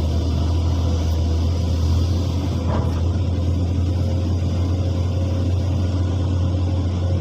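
Excavator's diesel engine running steadily, a constant low drone without changes in speed.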